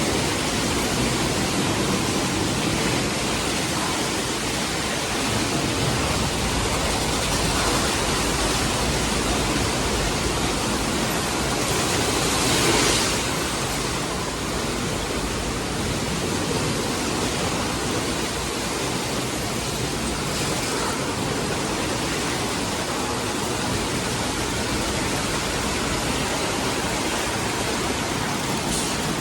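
Steady rush of water spraying in a Sonny's express car wash tunnel, its spray equipment running with the dryer blowers off. A brief louder surge comes about 13 seconds in.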